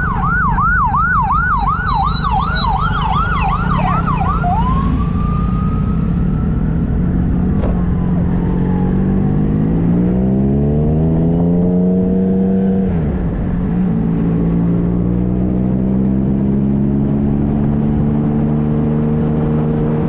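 An emergency-vehicle siren yelping fast, about three wails a second, then winding down and fading. Beneath it, a motorcycle's three-cylinder engine (a Triumph Trophy SE) accelerates, shifts up a gear about 13 seconds in, and pulls on, with steady wind and road noise.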